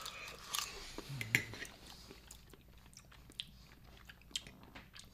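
Two people chewing mouthfuls of soft, soupy cauliflower rice: small, scattered mouth clicks and wet chewing noises, with a brief low hum a little after a second in.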